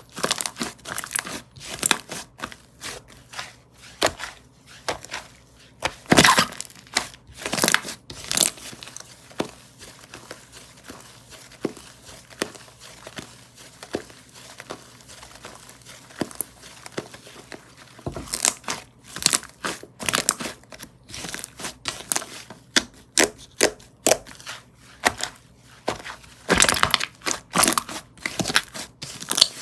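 Slime being stretched, pulled apart and squished by hand, giving a stream of tearing, crinkly crackles with louder bursts now and then.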